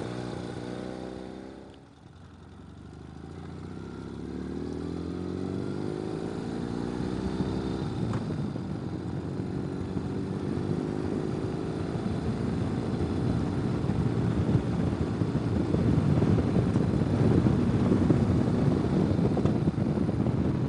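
Ural sidecar motorcycle's flat-twin engine: its note falls away to a low point about two seconds in, then climbs in pitch as the bike accelerates. It gives way to rough running with wind rush that grows louder toward the end.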